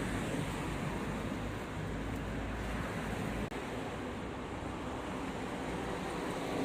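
Steady city street noise: a continuous rush of traffic with a low rumble, dipping briefly about three and a half seconds in.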